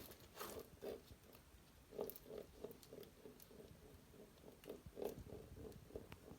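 British Shorthair cat eating: soft, rhythmic chewing sounds about three a second, with small clicks of the mouth.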